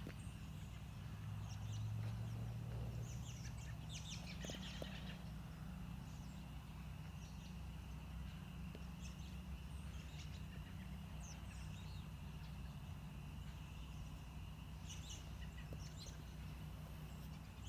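A large flock of birds calling at a distance: scattered chirps over a steady massed chatter, with a steady low rumble beneath.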